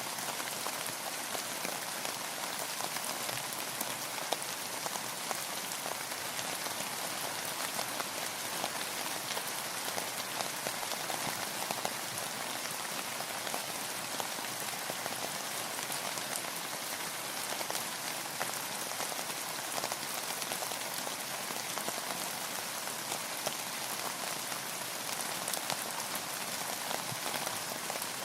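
Steady rain falling on a surface, a dense even hiss with many fine pattering drops.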